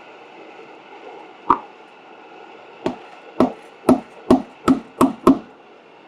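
Knife chopping on a cutting board: a single stroke, then a quick run of seven sharp chops.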